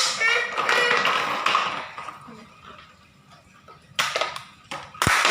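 A child's whiny voice trails off, then after a pause come two sharp knocks about a second apart near the end, the second louder.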